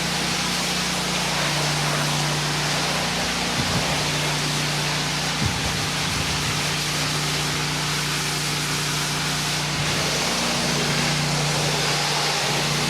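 Honda-engined 8 gpm pressure washer running steadily, its engine hum under the loud hiss of the high-pressure water spray. Two brief knocks come a few seconds in.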